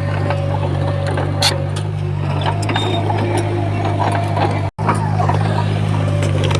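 Diesel engine of heavy earthmoving machinery running steadily, with scattered metallic clanks and rattles. The sound cuts out for an instant a little under five seconds in.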